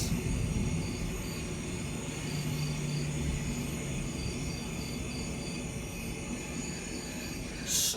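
Steady hiss of rain and wind during a thunderstorm, with a faint high chirping repeated about four or five times a second.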